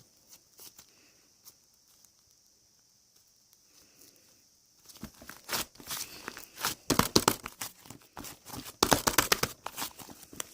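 Fluffy slime being squeezed and pressed by hand: quiet for the first half, then a dense run of sharp crackling and popping clicks from about halfway.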